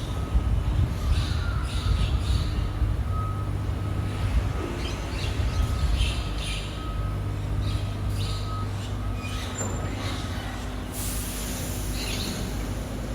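BYD electric garbage truck's rear loading machinery running with a steady low hum, as it works the load in. About eleven seconds in, a loud hiss of escaping air starts.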